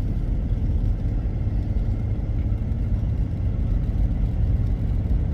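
Steady low engine and road rumble heard from inside a moving vehicle's cab.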